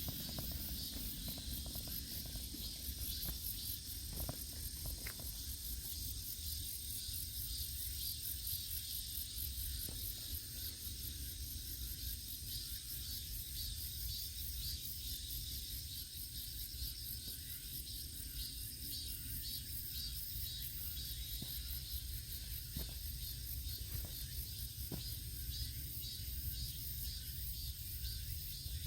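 A steady chorus of insects chirring, high and fast-pulsing, over a low continuous rumble, with a few faint clicks.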